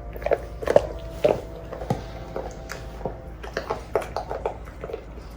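Pit bull chewing a squeaky toy, making many short, irregular squeaks and bites.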